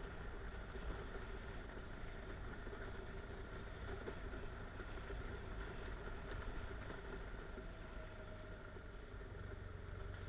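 Motorcycle engine running steadily at low, even speed while the bike is ridden along a dirt forest track.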